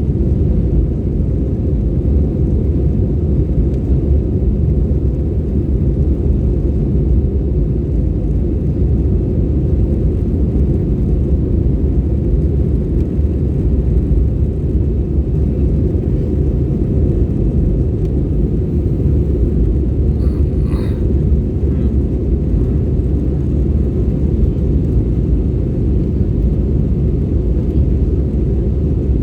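Airbus jet airliner's engines and airflow: a steady, loud low rumble that holds unchanged throughout.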